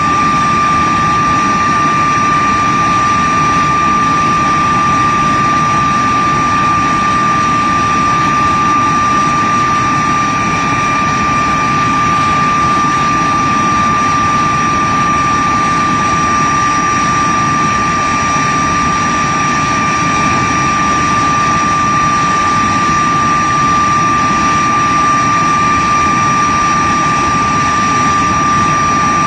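de Havilland Vampire's turbojet engine running steadily on a ground run, with a high, steady whine over a broad rushing noise.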